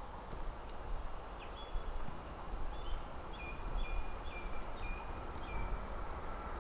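A bird sings a run of short, sharp chirps over a steady low rumble and hiss. Near the end a faint steady whine begins to rise as the approaching Hyundai Rotem HRCS2 electric train draws closer.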